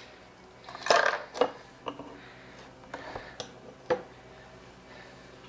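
Light clatter of small hard objects being handled: several separate clicks and knocks, the sharpest about a second in and again near four seconds, as the blower's fuel is got at for a look.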